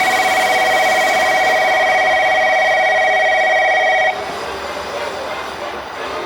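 Electric station departure bell ringing continuously with a fast trill, cutting off abruptly about four seconds in. Quieter train and platform noise follows as the train gets ready to leave.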